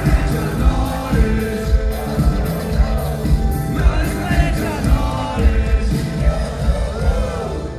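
Live hip-hop band playing, with a steady drum beat and a sung melody over it; the music stops abruptly at the very end.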